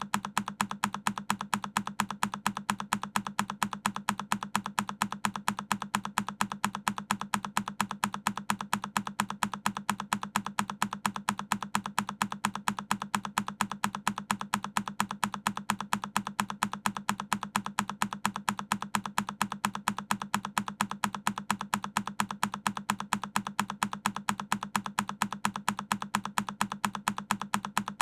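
A single key on a Keychron K10 mechanical keyboard pressed over and over, each press a short click, repeating several times a second in an even rhythm.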